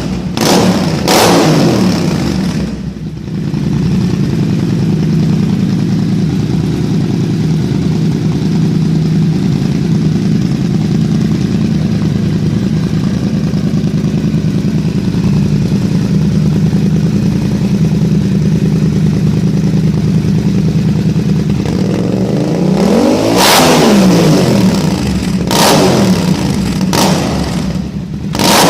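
Yamaha MT-07 parallel-twin engine running through a Zard aftermarket exhaust, holding a steady idle. About three-quarters of the way through, one throttle blip sends the revs up and back down, and several short sharp blips follow near the end.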